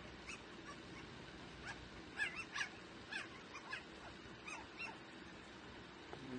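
Chickens calling in short, high-pitched chirps that come in quick runs, busiest about two to three seconds in.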